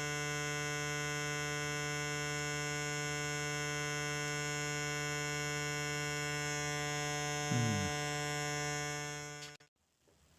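Future Sound Systems Brunswick synthesizer's oscillator through its VCA, holding a steady buzzy drone at one unchanging pitch. A brief short sound comes about seven and a half seconds in. The drone fades out near the end and stops.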